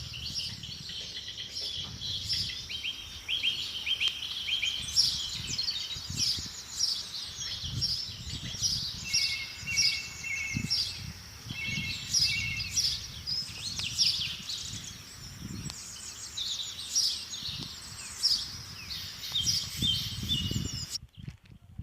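A chorus of many wild birds chirping and trilling, several calls overlapping, with an irregular low rumble underneath. The birdsong cuts off abruptly near the end.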